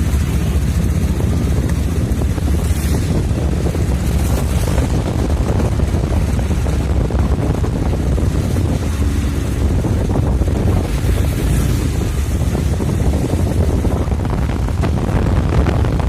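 Strong wind buffeting the microphone in a steady, loud low rumble, with surf beneath it.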